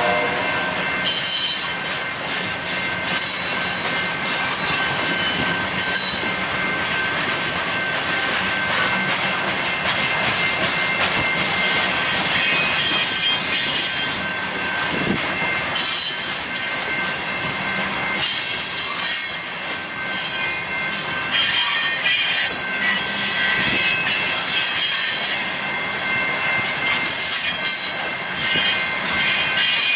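Covered hopper cars of a Canadian Pacific freight train rolling past at close range: steel wheels running on the rails with a steady high-pitched wheel squeal and uneven rail noise.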